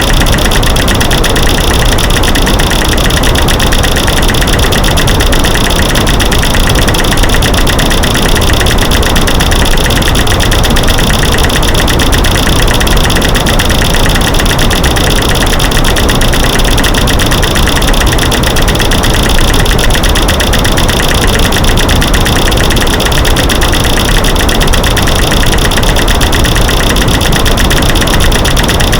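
A loud, unbroken mix of dense clicking and knocking over white noise, built from clicking light switches, breaking sticks and banging rocks layered together.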